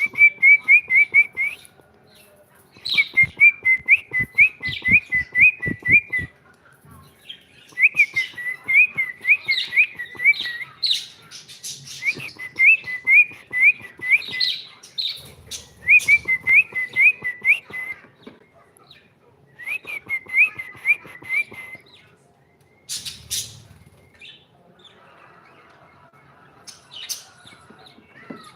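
A pet cockatiel chirping in about six runs of quick, repeated rising-and-falling notes, each run lasting about two seconds, with a soft ticking between them. The runs stop after about 22 seconds, and a few short sharp calls follow.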